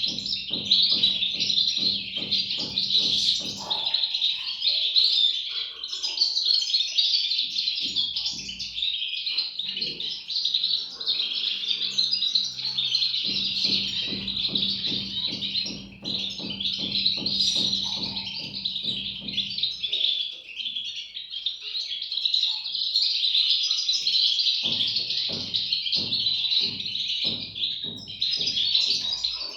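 Goldfinch chicks chirping continuously, a dense chorus of high, rapid calls overlapping with no pause.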